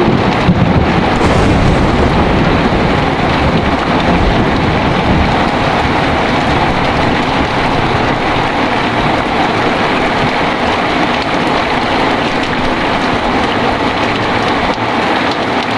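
Heavy rain falling steadily in a thunderstorm, with a low rumble of thunder in the first couple of seconds that fades into the rain.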